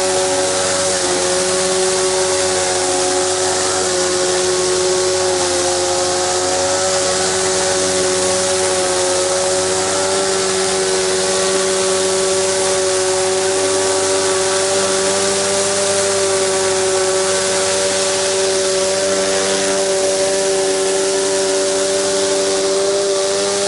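Pressure washer running steadily, a constant machine whine under the hiss of water spraying.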